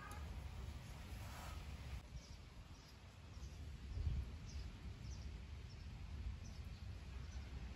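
A small bird chirping faintly and repeatedly, about ten short high chirps starting a couple of seconds in, over a low, steady rumble.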